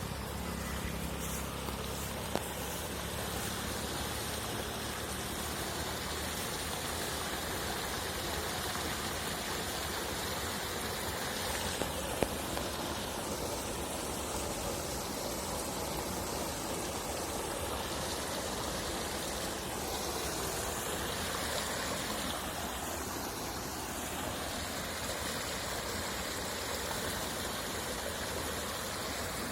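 Steady rush of flowing water from a waterfall or stream, even and unbroken, with two brief ticks, one about two seconds in and one near the middle.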